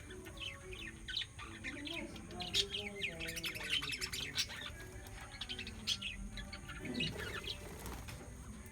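Small birds chirping and tweeting, many short quick high calls overlapping throughout.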